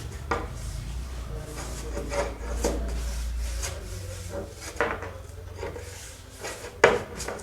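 Wooden pieces being rubbed and handled, with a few sharp wooden knocks, the loudest near the end, over a low steady hum.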